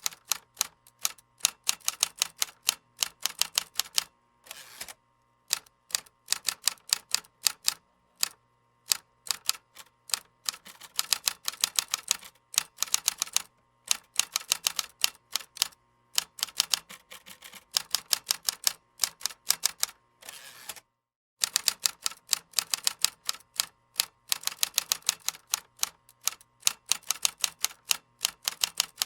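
Computer keyboard being typed on in quick runs of keystrokes, several clicks a second, broken by short pauses between runs.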